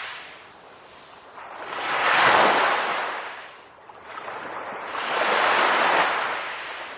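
Ocean waves washing onto the shore in two surges, one about two seconds in and one about five seconds in, each rising and then fading back.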